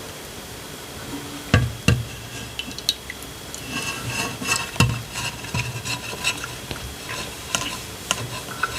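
Eating sounds from a bowl of palm nut soup with banku: food being stirred and handled in the bowl, with a few sharp knocks against the dish, twice about a second and a half in and again near the middle.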